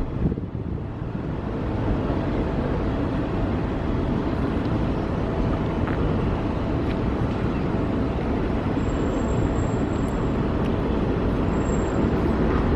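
New York City subway train on an elevated line, a steady rumble that builds over the first couple of seconds and then holds. Brief high-pitched squeals come about nine seconds in and again near the end.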